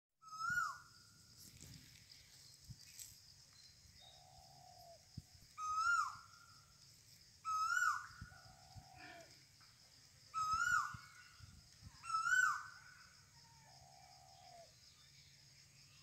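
A bird calling over and over: five loud short notes that rise and then drop sharply, alternating with three lower, longer drawn-out notes. Under the calls runs a steady high whine and a faint low hum.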